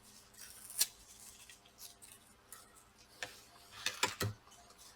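A few faint clicks and light taps from small laptop parts being handled: one a little under a second in, another after about three seconds and a closer pair near four seconds.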